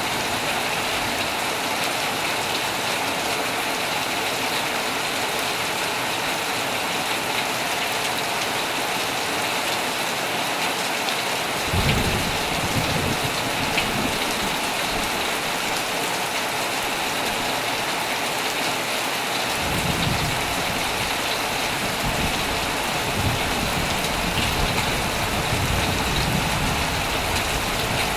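Heavy rain pouring steadily onto a tent, with low rolls of thunder coming in about twelve seconds in and again from about twenty seconds on.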